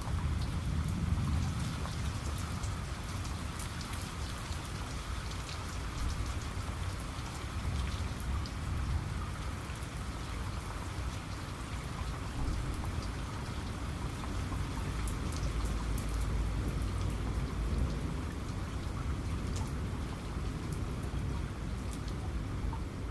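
Steady rain falling on a surface, many individual drops ticking over an even hiss, with a low rumble underneath.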